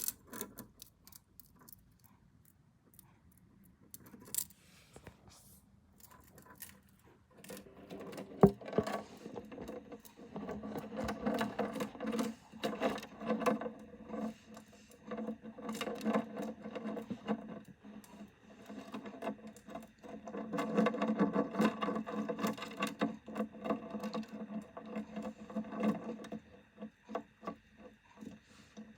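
Scattered sharp clicks, then from about eight seconds in a cicada's buzzing distress call in uneven spurts, dying away near the end: the cicada calling while a Japanese katydid eats it.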